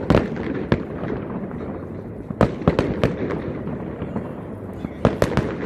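Aerial fireworks exploding: a few sharp bangs near the start, a quick cluster of several bangs about halfway through and another pair near the end, each with an echoing tail, over a steady crowd-and-ambient noise bed.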